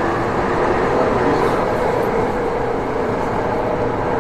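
Saitama Railway 2000 series electric train running at speed between stations: a steady rumble of wheels on rail with a steady hum.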